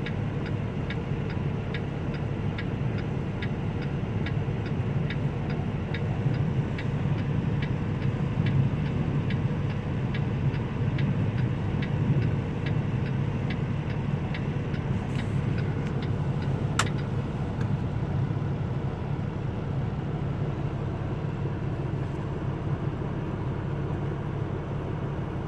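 Steady road and wind noise inside a car travelling at highway speed. Over it, a regular ticking runs at a little over two a second and stops about halfway through, and a single sharp click comes a few seconds later.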